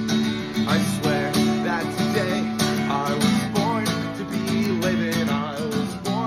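Acoustic guitar strummed steadily in a song, with a wavering melody line over the chords.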